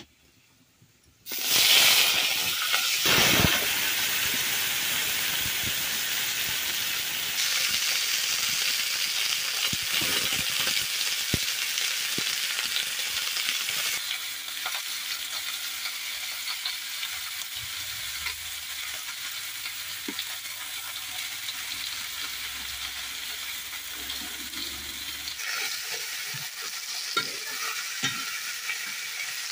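Vegetables frying in hot oil in a wok over a wood fire: a loud sizzle starts suddenly about a second and a half in, then settles into a steady sizzle that slowly eases. A spatula stirring the vegetables adds light scrapes and knocks.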